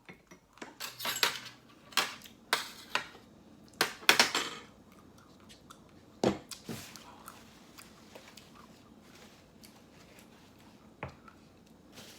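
Close-up crunching bites into the chocolate-and-almond shell of an ice cream bar, a quick run of crisp cracks in the first few seconds, then a few quieter crunches and chewing.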